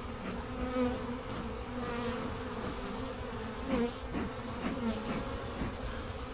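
Honeybees buzzing around an open hive, a steady hum with single bees flying close past now and then, their pitch rising and falling as they pass.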